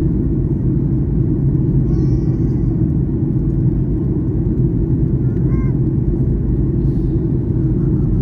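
Steady cabin rumble of a Boeing 737-800 in flight: engine and airflow noise, heavy in the low end and even throughout.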